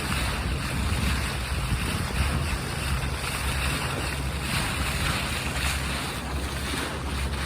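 Steady low rumble of a lake cruise boat's engine under way, with water rushing along the hull and wind buffeting the microphone.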